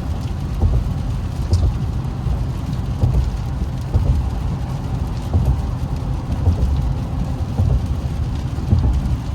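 Cabin noise of an Infiniti Q50 driving in the rain on a wet road: a steady low rumble of engine, tyres and road, with rain on the car over it.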